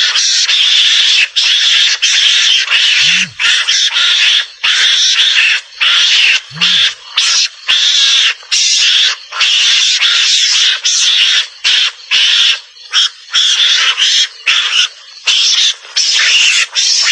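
Mongoose (garangan) calls from a hunting lure recording: harsh, hissing chatter in rapid bursts, each under a second, broken by short gaps. Two brief low thuds come about 3 and 6.5 seconds in.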